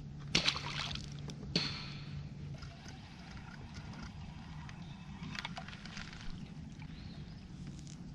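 Water splashing and trickling at the side of a kayak, with a few sharp splashes in the first two seconds and lighter dripping after.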